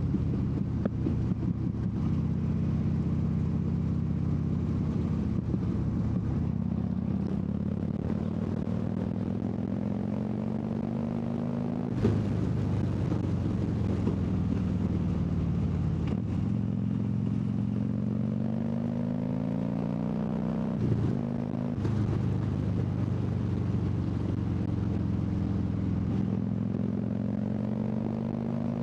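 Harley-Davidson V-twin engine pulling on an open road, its note rising steadily and dropping back at gear changes about 12, 16 and 21 seconds in, over a rush of wind.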